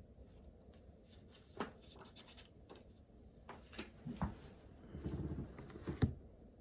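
Writing and handling things at a desk: short scratchy strokes and light clicks, a rattling stretch about five seconds in, and a sharp knock a second later.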